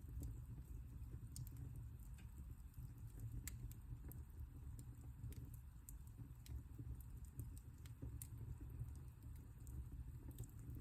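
Wood fire burning in a fireplace, crackling with irregular small pops over a soft low rumble of the flames.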